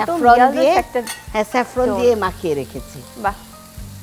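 Rice, prawns and chicken sizzling in a hot wok while a spatula stirs and turns them.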